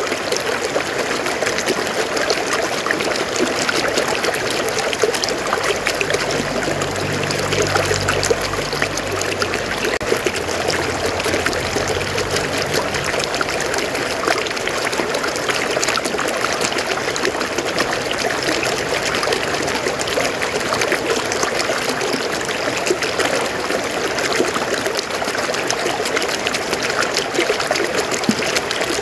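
River water flowing steadily over rocks, a continuous splashing rush. A faint low hum joins in from about six to thirteen seconds in.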